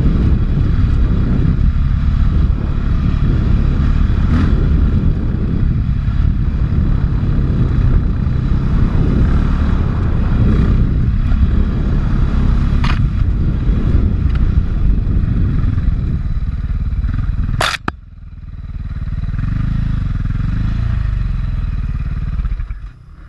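450 cc four-stroke single-cylinder dirt bike engine running on the trail, a steady deep rumble. Near the end a sharp click cuts it, and a lower, quieter sound swells and fades before dropping away.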